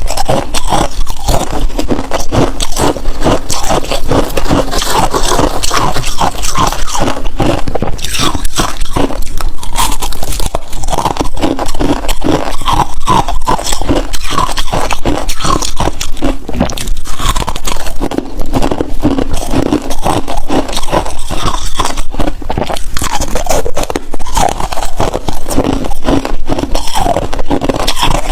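Close-miked crunching and chewing of freezer frost: a dense run of crisp bites and crackles, with some scraping.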